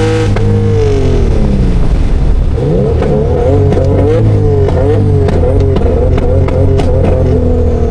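Turbocharged Infiniti G37 engine at high revs that fall away about half a second in. For the next several seconds the revs flutter rapidly up and down, with sharp clicks scattered through, as the throttle is worked while drifting.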